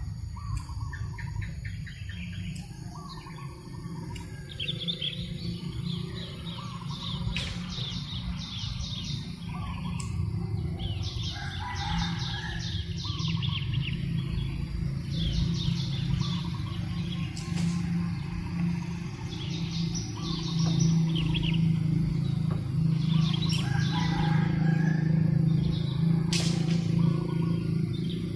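Birds chirping in short, rapid trilled phrases repeated every second or two, over a steady low rumble that grows louder in the second half.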